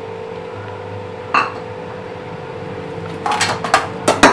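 Kitchen utensils and vessels clinking: a single knock a little over a second in, then a quick run of clinks and taps near the end, over a steady hum.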